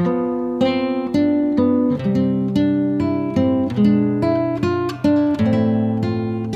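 Background music: acoustic guitar plucking and strumming notes and chords, each ringing and fading, at an easy steady pace.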